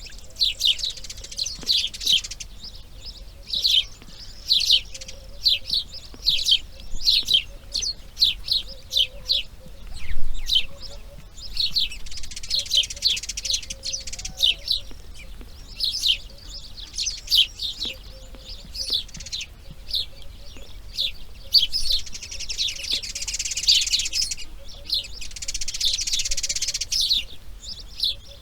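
Birds chirping: a long run of short, high, down-slurred chirps repeated several times a second, with denser bouts of calling about halfway through and again near the end.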